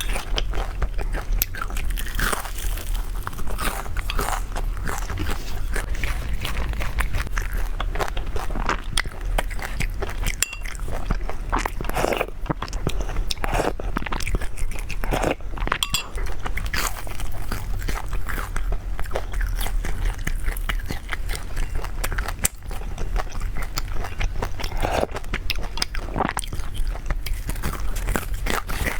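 A person biting and chewing crisp food close to the microphone: irregular crunches and wet chewing clicks, over a steady low hum.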